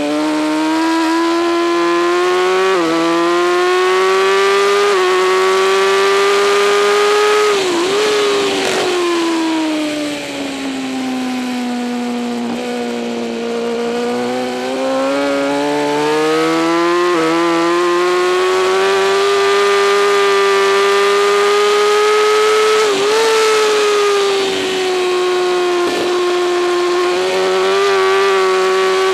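2008 Kawasaki ZX-10R's inline-four sportbike engine at racing speed. Its pitch climbs through quick upshifts, dips sharply about 8 seconds in, falls to a low around the middle as the bike slows for a corner, then builds again with more upshifts. A steady hiss of wind sits over the engine note.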